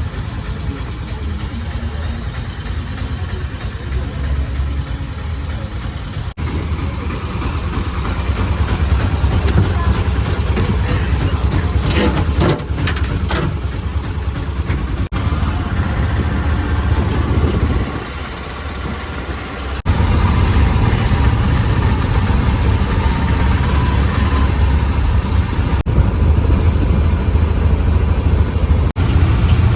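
A motor vehicle's engine and road noise heard during a ride: a steady low rumble whose level changes abruptly a few times, with a few sharp clicks about halfway through.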